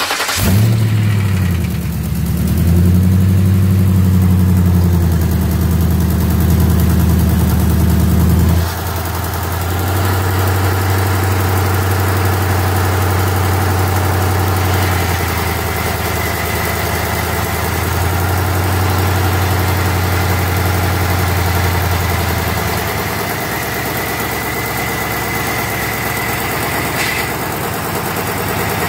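Ford Crown Victoria's 4.6-litre two-valve V8, fitted with long-tube headers, starting up and running at a fast idle. About eight and a half seconds in the idle drops to a lower, quieter note and stays steady, heard close up from the open engine bay.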